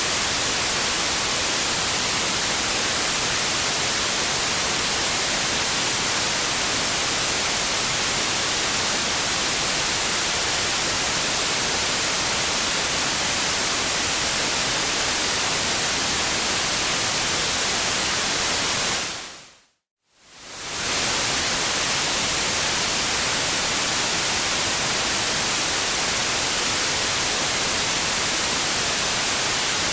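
Steady white-noise hiss, brighter toward the high end. About 20 seconds in it fades out to silence for a moment and fades back in.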